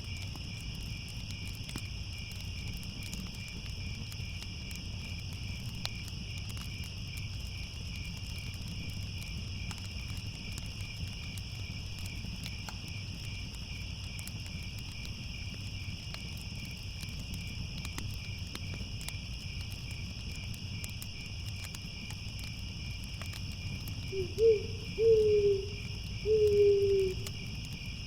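Steady chirring of a cricket chorus over a low hum, with faint scattered crackles. Near the end, an owl hoots three or four times, the last hoot the longest and falling slightly.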